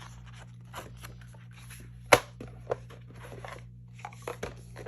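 Paper and plastic album packaging being handled: rustling and crinkling with scattered clicks and one sharp snap about two seconds in, over a steady low hum.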